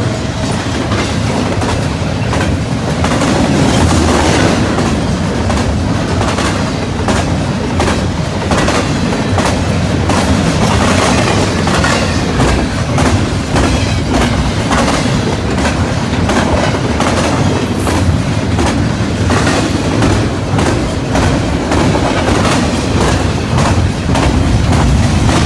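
CN intermodal freight train passing at speed: its cars roll by with a steady rumble and a fast clickety-clack of wheels over the rail joints.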